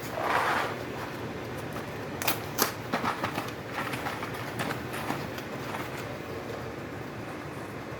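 Dry macaroni noodles poured and rattling into a pot, a cluster of sharp clicks and rattles about two seconds in, over a steady low background hum.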